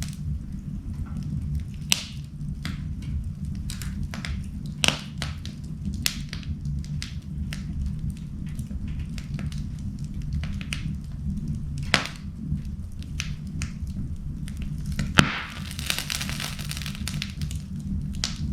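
Wood fire burning in an indoor fireplace: a steady low rumble of flames with scattered sharp crackles and pops from the burning wood. The loudest snap comes about 15 seconds in and is followed by about two seconds of hissing.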